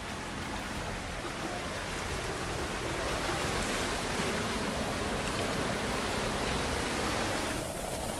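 Steady rushing noise of a heavy rainstorm, growing a little louder about three seconds in and changing character shortly before the end.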